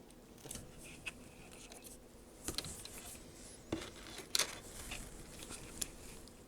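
Scattered small clicks, taps and scrapes of hand tools or parts being handled on an electronics workbench, with sharper taps about two and a half, three and three-quarter and four and a half seconds in.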